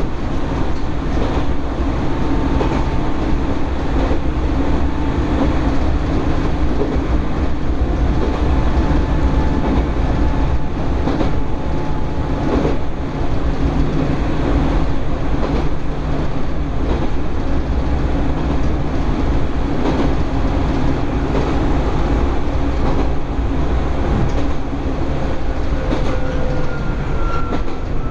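Inside the car of an Izuhakone Railway electric train running between stations: a steady rolling rumble with wheels clicking over rail joints and faint whining tones, one gliding near the end.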